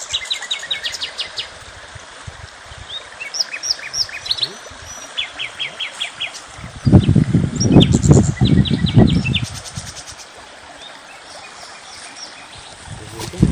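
Small birds chirping and twittering in quick runs of high notes over a steady outdoor hiss. About halfway through, a loud low rumble lasts two to three seconds.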